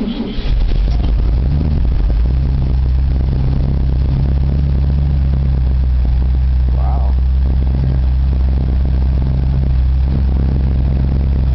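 1973 International truck's 392 big-block V8 idling steadily just after a cold start.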